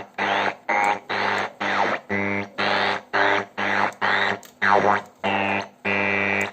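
Diora RPS 611 car radio seeking through the band: short bursts of static and station fragments, about two a second, muted between steps, with a steady buzz and gliding whistles as it passes over stations.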